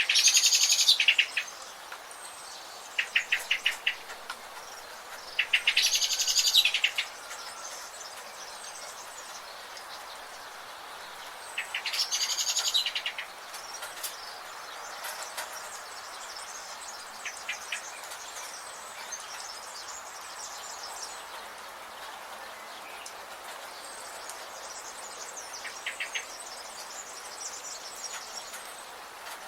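Forest birds singing: three loud, rapid, chattering songs of about a second each, at the start, around six seconds in and around twelve seconds in, with shorter quick chirp series between, over a steady background hiss.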